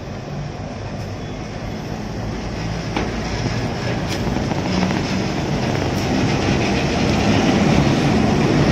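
Diesel-electric locomotive passing slowly at close range, its engine drone and running noise growing steadily louder as it comes alongside, with a few sharp clicks.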